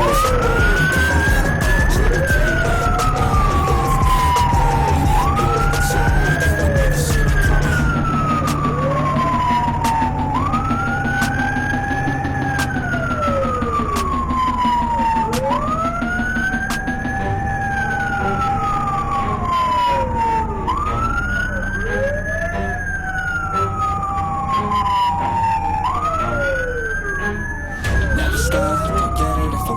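Fire truck sirens in a slow wail: two tones overlap, each rising quickly and then falling slowly, about every five seconds. A steady low engine rumble runs underneath.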